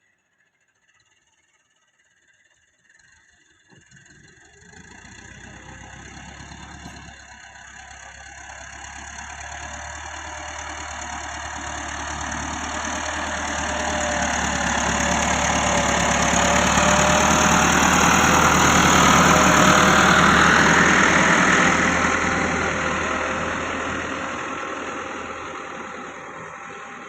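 Tractor diesel engine running after a few seconds of near silence, growing steadily louder to a peak about two-thirds of the way through, then fading.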